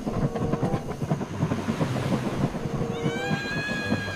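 Train sounds for the toy locomotive: a busy rattling rumble, joined about three seconds in by a steady horn note that holds for over a second.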